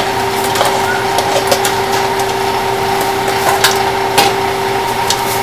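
A steady machine hum with a constant tone, with scattered sharp clicks and knocks over it.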